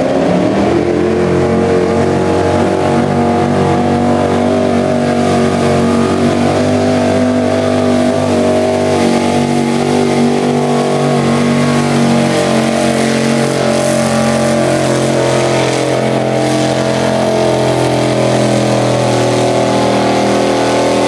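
Loud engine of a pulling vehicle held at high revs through a pull. The pitch settles after a climb at the start and stays nearly steady throughout.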